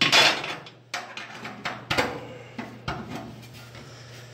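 A loud scraping rush, then a series of sharp metal knocks and clatters about once every half second to a second, as sheet-metal parts and hand tools are handled.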